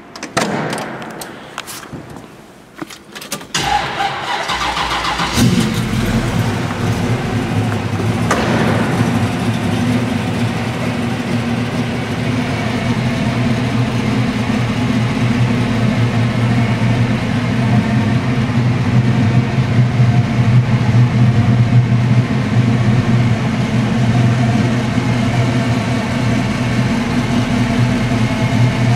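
Door handle and latch clicking as the car door is opened, then a 1969 Chevrolet Camaro's engine cranks and starts about five seconds in and settles into a steady idle.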